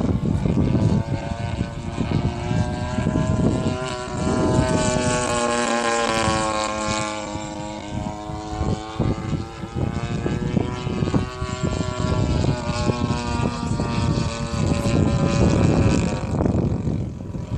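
EME 35cc single-cylinder two-stroke gas engine on an Ultimate 120 RC model plane running with its propeller, the pitch climbing about four seconds in and sliding back down over the next several seconds.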